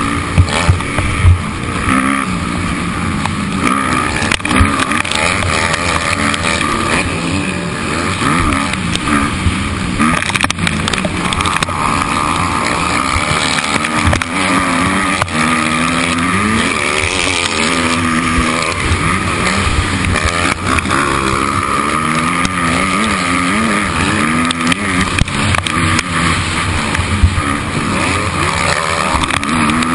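Motocross motorcycle engine running hard through a race, its pitch rising and falling again and again as the throttle opens and closes, over a constant rushing noise with a few sharp knocks.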